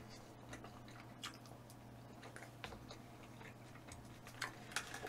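Faint chewing, with small scattered clicks of mouth and food and a few louder ones near the end.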